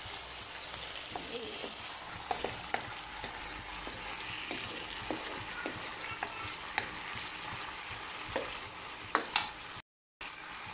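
Stingray pieces in thick belacan chilli sauce sizzling in a wok while a wooden spatula stirs and turns them, with scattered scrapes and taps of the spatula against the pan. Two louder knocks come about nine seconds in, and the sound cuts out briefly just after.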